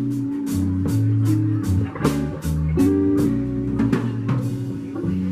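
Blues band playing between sung lines: guitar over bass and a drum kit, with steady drum and cymbal hits.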